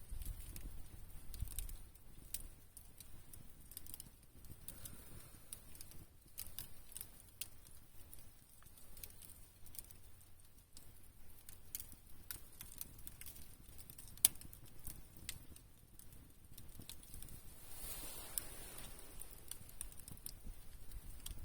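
Campfire wood crackling with irregular small pops and ticks, one sharper pop a little past the middle.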